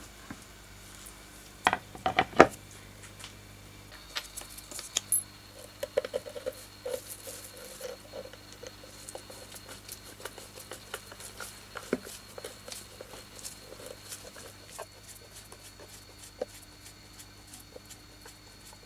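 Handling sounds: a quick cluster of sharp knocks about two seconds in, then scattered light clicks and taps.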